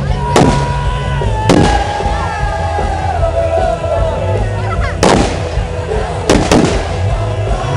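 Firecrackers banging five times, sharp and loud, the last two close together, over music with a steady low drone.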